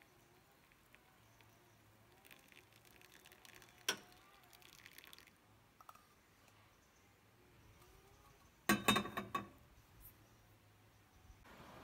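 Quiet handling of kitchenware: a single sharp clink about four seconds in and a quick cluster of clinks and knocks about nine seconds in, over faint background.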